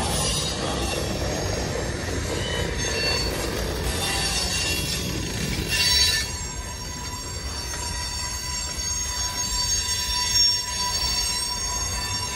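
Freight cars (centerbeam lumber flatcars, then a covered hopper and tank cars) rolling past: steel wheels rumbling on the rails with a steady high-pitched wheel squeal, and a brief louder burst of noise about halfway through.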